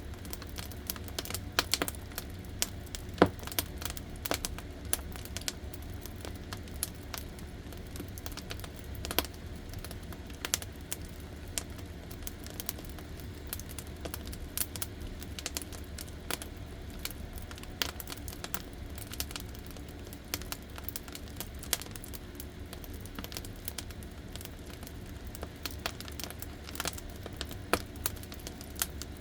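Solid-wood firewood logs burning, crackling with irregular sharp pops and snaps over a steady low rumble.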